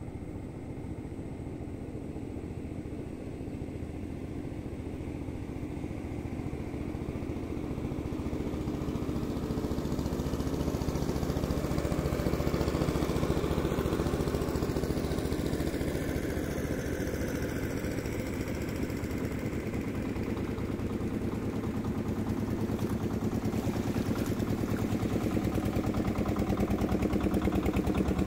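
An engine running steadily with a fast, even pulse, growing louder about ten seconds in and again near the end.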